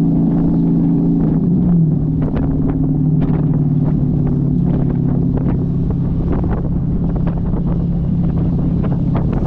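Dodge Challenger's exhaust at a steady cruise, its note dipping slightly about a second and a half in and then holding, with scattered short ticks and wind on the microphone.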